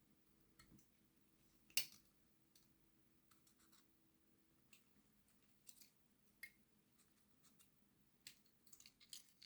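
Small plastic parts of a model locomotive being handled and taken apart: scattered faint clicks and scratches, with one sharper click about two seconds in.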